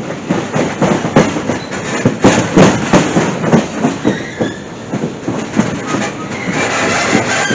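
Passenger train coach rolling along the rails: wheels clattering and knocking over the track joints, with the coach creaking, and a faint high squeal near the end.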